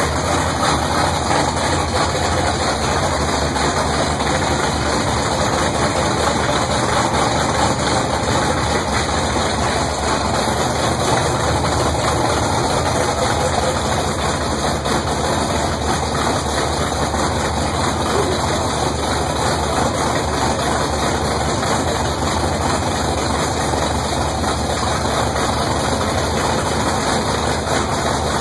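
1970 Pontiac Trans Am's freshly built V8 idling steadily during its first run after the build, held at about 1,000 RPM.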